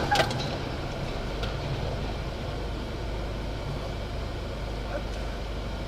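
Steady low rumble of a motor vehicle, engine and road noise as picked up by a dashcam, with a few faint ticks.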